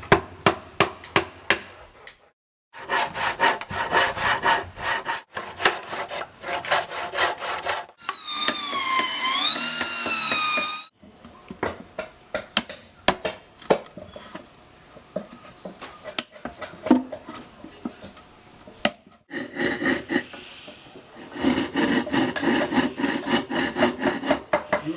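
Saw cutting wood in quick, repeated strokes, in runs that stop and start. About eight seconds in, a wavering whine lasts some three seconds. Scattered knocks and taps follow before the sawing picks up again near the end.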